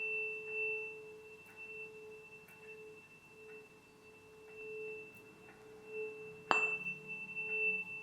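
A tuning fork rings a steady pure tone that swells and fades in loudness, and is struck again about six and a half seconds in.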